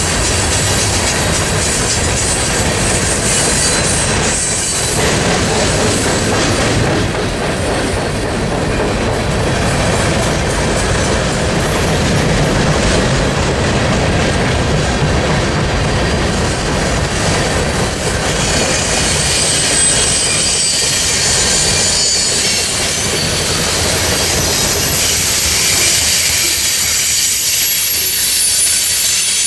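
Train cars rolling past with steady rumbling wheel noise. Thin high-pitched wheel squeals come in about two-thirds of the way through.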